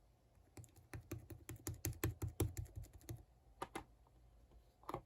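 A quick run of light taps, about six a second for two and a half seconds, then a few scattered taps near the end.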